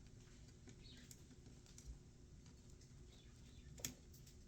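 Near silence with a few faint clicks and taps, one sharper click near the end.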